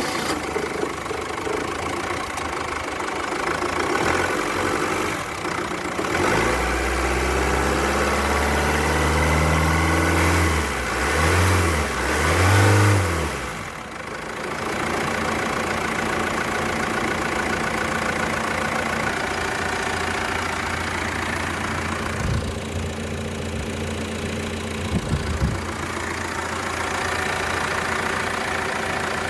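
2018 Foton Tunland's engine running at idle, revved in the middle: one long rise and fall in pitch, then three quick revs, before it settles back to a steady idle. Near the end there are a couple of short knocks.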